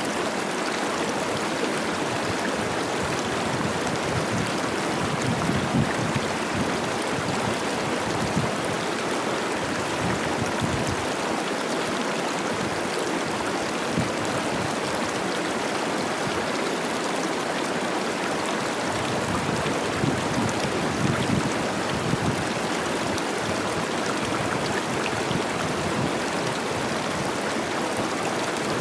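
A fast mountain river running high with spring snowmelt: a steady rush of water babbling over rocks.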